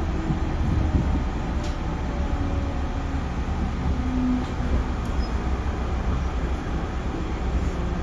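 Inside a JR Central 311-series electric train car: a steady low rumble with a few faint humming tones, and no sudden events.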